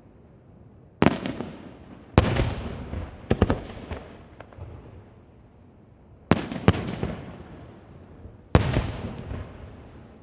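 Aerial firework shells bursting: about seven sharp bangs, some in quick pairs, each followed by a fading rumble.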